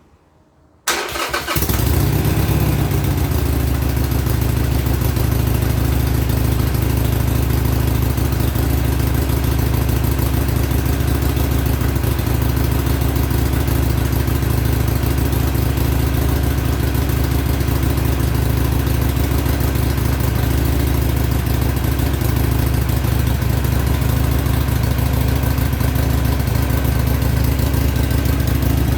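2014 Harley-Davidson Iron 883's air-cooled 883 cc V-twin on its stock exhaust, started about a second in, briefly at a slightly higher idle just after it catches, then idling steadily.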